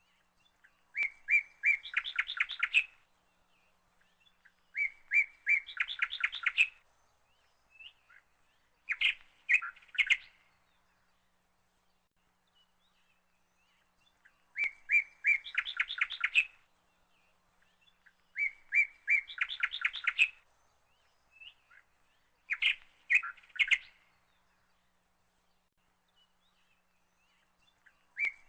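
A bird singing: a short phrase of a few clear notes running into a quick trill, repeated about every four seconds with quiet between.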